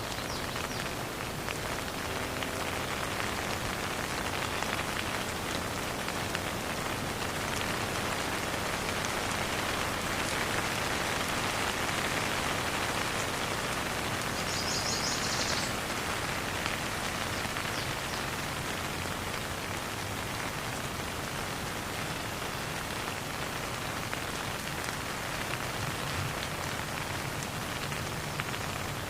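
Steady rain falling: an even hiss of drops on surfaces, with no thunder. A brief high-pitched chirp lasting about a second comes about halfway through.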